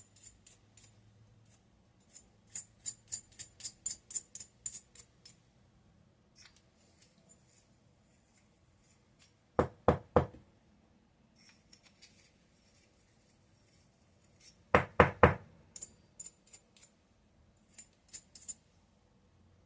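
Light clicking and clinking of small metal parts, with two groups of about four quick, loud knocks: hands working on a disassembled electric nail-file handpiece during a teardown for cleaning.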